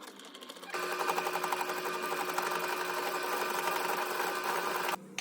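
A motor-driven machine running with a fast, even clatter and a steady hum. It starts under a second in and cuts off abruptly near the end.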